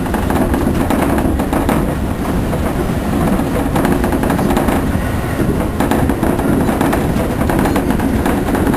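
203 series electric train running, heard inside the car: a rapid, continuous clattering rattle ('batabata') over the low running rumble.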